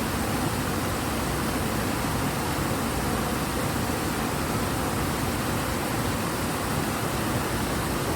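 Ebro river running high and fast, a steady, even rush of water.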